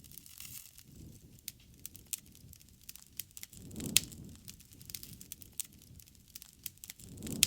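Campfire burning: irregular sharp crackles and pops from the wood over a low rush of flame that swells twice, with the loudest pop about four seconds in.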